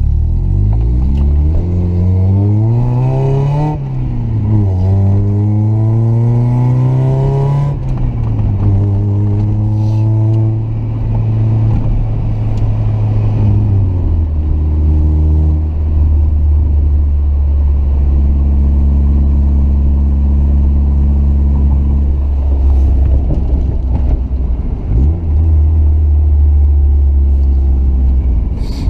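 Mazda Miata's four-cylinder engine through an aftermarket exhaust (resonated test pipe and 6-inch muffler), accelerating hard with the revs climbing and dropping at gear changes about 4 and 8 seconds in. It then holds steady and settles to a lower steady drone, cruising, from about midway.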